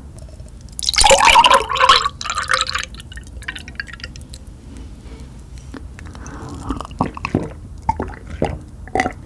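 Close-up eating sounds of spicy chicken being bitten into and chewed. A loud bite about a second in lasts around two seconds, then wet chewing with rapid lip-smacking clicks through the second half.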